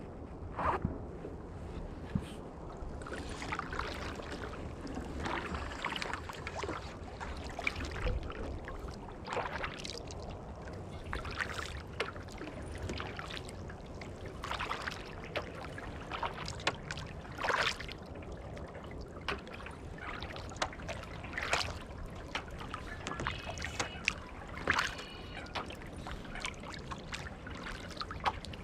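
Kayak paddle strokes in swamp water: a splash about every two or three seconds, with water trickling off the paddle blade between strokes.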